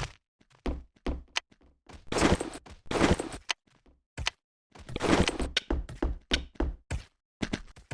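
A quick irregular series of short thunks and knocks, with two longer rustling, scraping stretches of handling noise.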